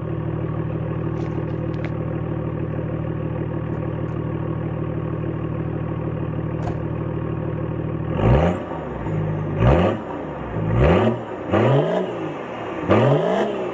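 BMW E39 525tds's 2.5-litre straight-six turbodiesel idling steadily on a cold start. About eight seconds in it is revved in short blips, about five rises and falls a second or so apart.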